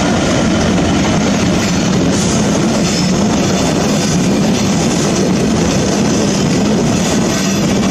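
Loaded wagons of a freight ballast train hauled by a GBRf Class 66 locomotive rolling past at close range: a loud, steady rumble of wheels on rail.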